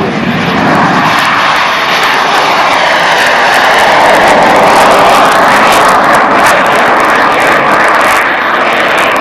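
BAC Strike Master's Rolls-Royce Viper turbojet taking off at close range: a loud jet roar that swells to a peak about halfway through, then eases a little as the aircraft goes past.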